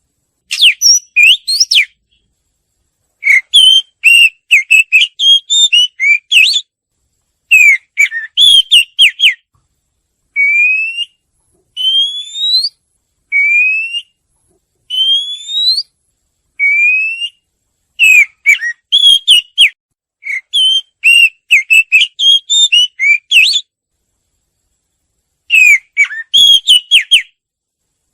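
White-rumped shama singing: phrases of quick, varied whistled notes broken by short pauses. In the middle comes a run of five slow, separate whistles, each rising in pitch.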